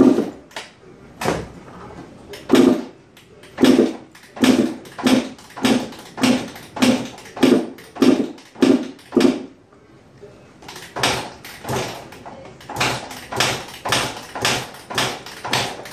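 1996 Suzuki RM 125 single-cylinder two-stroke dirt bike being kicked over again and again, each kick a short burst of the engine turning over without catching. The kicks come about a second apart at first, then about two a second, with a short pause in the middle. The engine won't fire, which the owner suspects is a carburettor problem.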